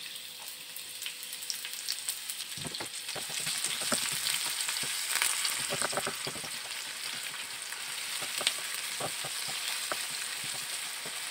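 Sliced onion and green chillies sizzling in hot soybean oil in a frying pan. The sizzle builds a little about two seconds in. Short scrapes and taps come from a silicone spatula stirring them.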